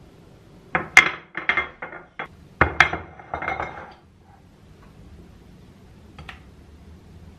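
Kitchen dishes and utensils being handled: a quick run of clinks and knocks lasting about three seconds, then a single light click a couple of seconds later.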